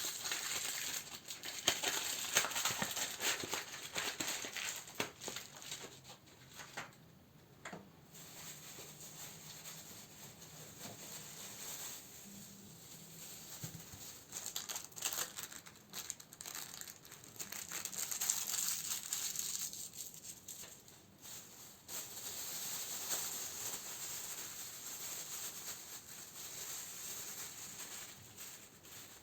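Crinkling of candle packaging being handled, a dense run of small crackles and clicks, loudest in the first few seconds and quieter through the middle.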